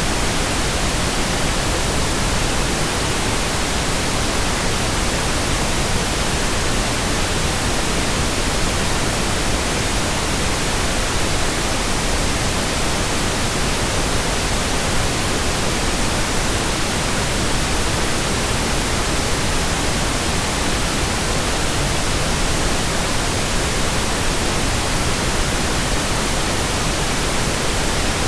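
Steady white noise: a constant, even hiss spread from low to high, with no change or break.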